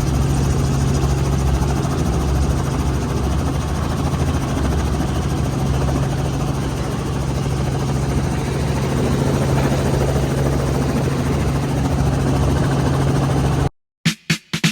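Helicopter running in flight: a steady, loud engine and rotor drone with a constant low hum. It cuts off suddenly near the end, followed by a few sharp clicks.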